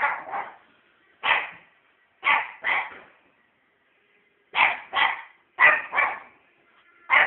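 A puppy barking repeatedly: about ten short barks, mostly in quick pairs, with a pause of a second and a half midway.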